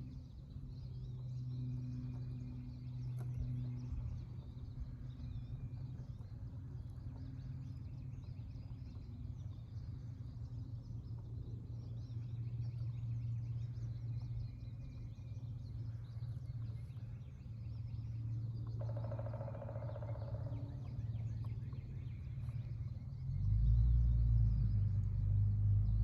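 Outdoor garden ambience: a steady low hum with faint bird chirps, and a louder low rumble over the last few seconds.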